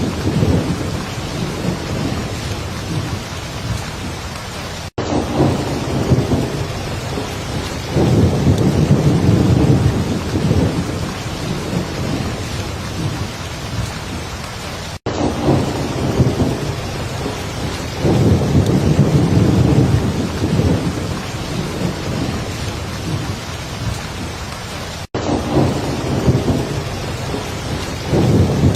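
Heavy rain falling in a steady hiss, with low rumbles of thunder that swell and fade about every ten seconds. The sound cuts out for an instant three times at even spacing, the seams of a looped recording.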